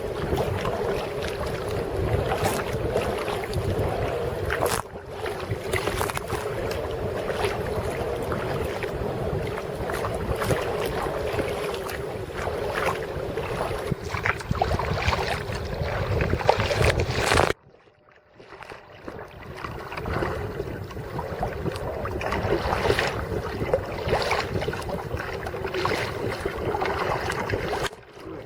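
Kayak paddling: irregular paddle strokes splashing and dripping in lake water, with wind buffeting the microphone. About two-thirds of the way through, the sound cuts out suddenly for about a second, then returns.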